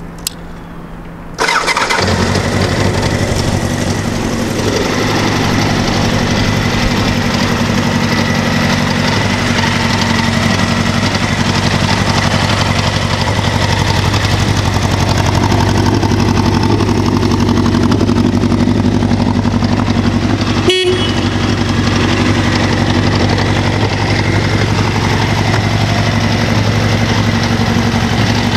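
A Honda CBR1000F Hurricane's inline-four engine is started about a second and a half in and then runs steadily. About 21 s in there is one brief horn beep.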